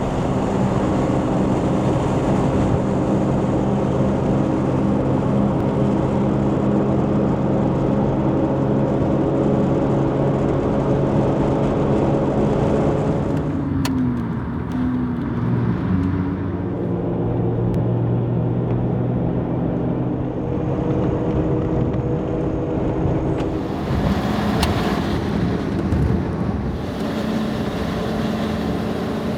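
Off-road vehicle's engine and tyre noise while driving on pavement, steady at first. About fourteen seconds in the engine note slides down, then comes back up and runs on.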